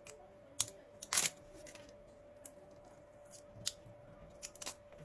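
A few scattered sharp clicks and taps from hands working a cordless vacuum cleaner's 18650 lithium-ion battery pack and tools, over a faint steady hum.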